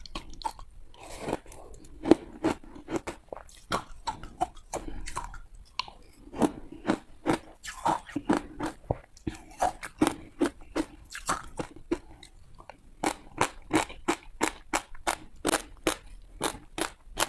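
Ice being bitten and chewed: a run of sharp crunches and cracks that quickens to about three or four crunches a second in the last few seconds.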